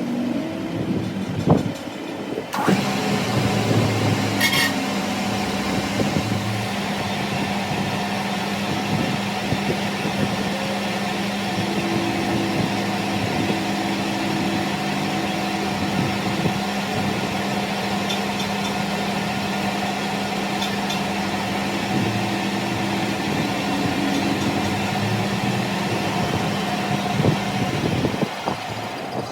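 A few knocks, then a workshop machine starts about two and a half seconds in and runs steadily at an unchanging pitch, stopping near the end.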